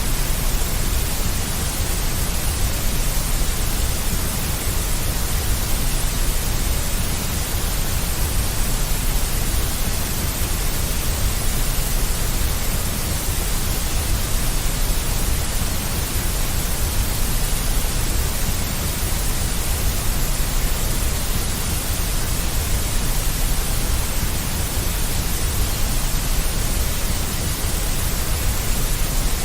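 Steady, unchanging generated white noise, with a deep low rumble under an even hiss.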